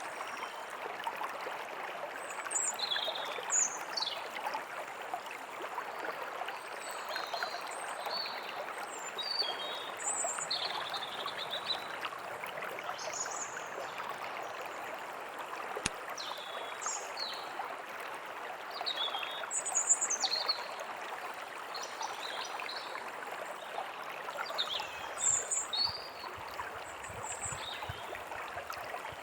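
A forest stream running steadily, with small songbirds chirping and trilling over it in short, high notes.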